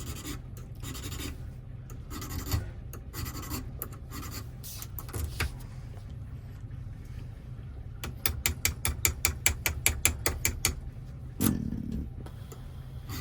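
Hand file rasping on metal while a key's cuts are worked down: a few separate strokes, then a quick run of short strokes, about eight a second, late on.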